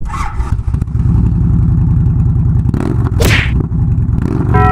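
Motorcycle engine running with a steady low pulsing rumble, with a short hiss about three seconds in.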